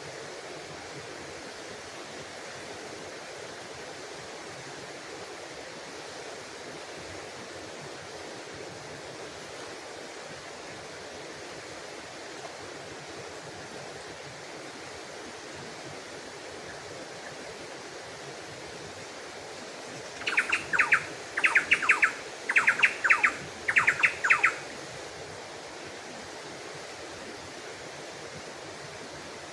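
Steady rush of a small stream's flowing water. About two-thirds of the way in, a bird calls loudly in four quick bursts of rapid chirps over some four seconds.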